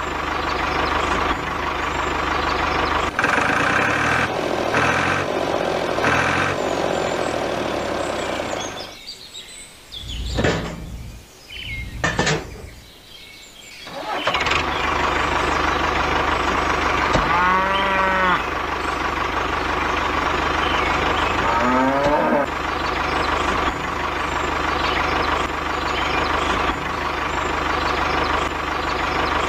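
Tractor engine running steadily, with a cow mooing once about two-thirds of the way through and a shorter call a few seconds later. The engine sound drops out for a few seconds about a third of the way in, with a few sharp knocks.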